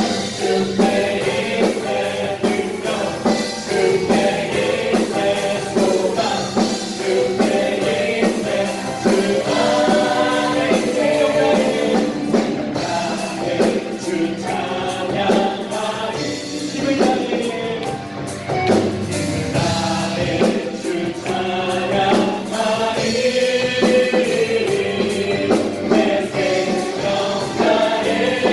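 A worship team singing a gospel praise song together over a band with a steady beat.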